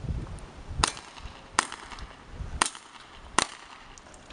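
Airsoft Glock 18 pistol firing four single shots, each a sharp crack, a little under a second apart.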